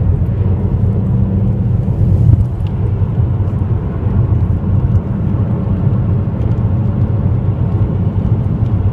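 Steady low drone of a car's road and engine noise heard from inside the cabin at speed, with a few faint scattered ticks of insects striking the windshield.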